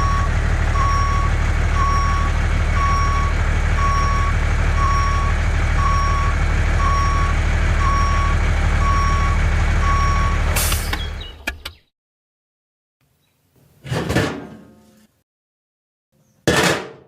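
Truck engine running steadily with a reversing beeper sounding about once a second. Both cut off together about eleven seconds in, and after a pause come two short bursts of noise.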